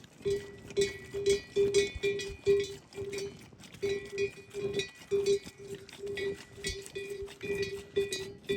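Bells on livestock clanking as the animals move: short strikes of one pitch, about three a second in an uneven rhythm.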